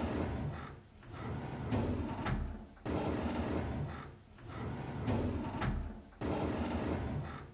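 A drawer sliding open on its runners with a rumbling, rattling scrape, repeated about every three and a half seconds; each pass starts abruptly and fades out.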